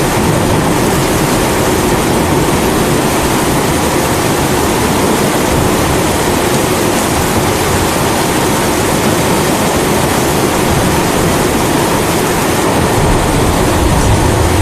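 Pressurised kerosene (primus) stove burning steadily, its flame hissing, mixed with falling rain. A low rumble, likely thunder, builds near the end.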